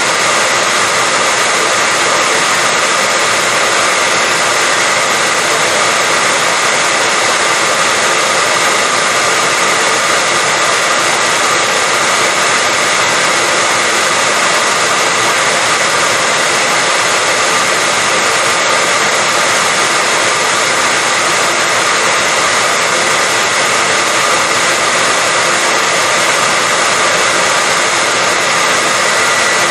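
Hair dryer running steadily: an even rush of air with a steady high motor whine.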